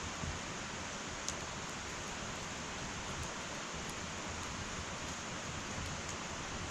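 Wood fire burning in an irori sunken hearth: a steady hiss with a few faint crackles and one sharper pop about a second in.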